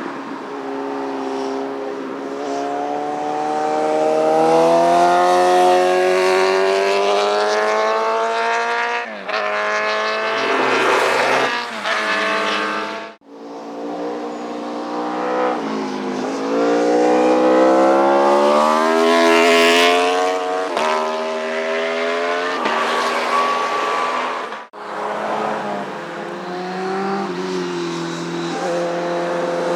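Motorcycle engines revving up and passing at speed one after another, their pitch rising under acceleration and falling away. Abrupt cuts between clips come about 9, 13 and 25 seconds in.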